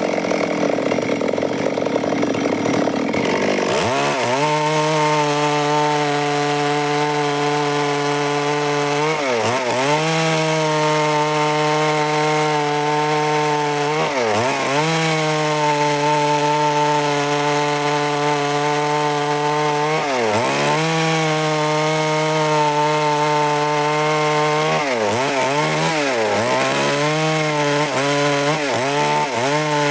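Stihl MS 382 two-stroke chainsaw running at high revs and cutting wood. It is rough and noisy for the first few seconds, then settles into a steady engine note that dips briefly four or five times.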